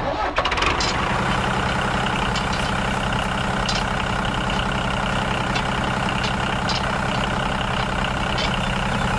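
Mini DIY tractor running steadily as it drives along pulling a plough, an even engine drone with a few light clicks.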